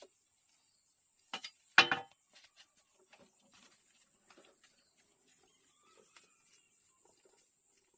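Two quick knocks, then a louder knock about two seconds in, followed by faint scattered taps and clicks.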